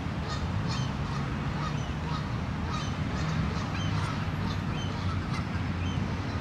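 Birds calling in short, repeated high notes, several a second, over a low steady rumble.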